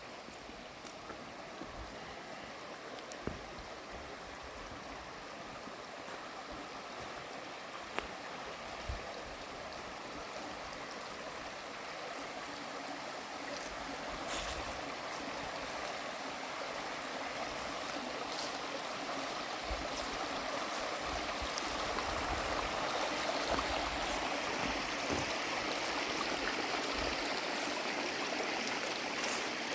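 Running water of a stream, a steady rushing that grows louder from about halfway through, with a few scattered knocks.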